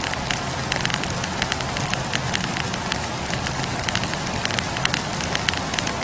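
Wood campfire burning, with a steady hiss of flames and frequent irregular crackles and pops from the logs.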